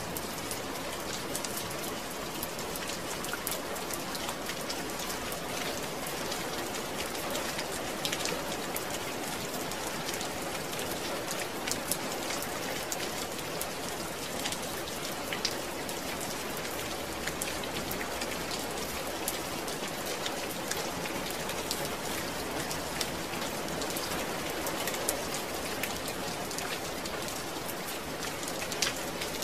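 Steady rain falling and pattering on a surface, with many small individual drop ticks.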